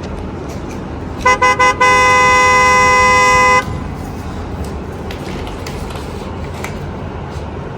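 A horn sounding three short toots followed by one long steady blast of about two seconds, with several notes sounding together as a chord.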